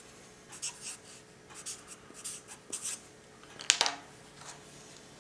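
Pen scratching on paper in a series of short strokes, with one sharper tap or click about three-quarters of the way through.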